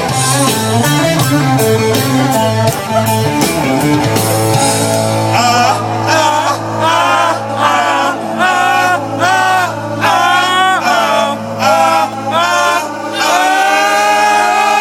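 Rock band playing: a low guitar-and-bass riff, then a singer's voice over held chords, starting about five seconds in.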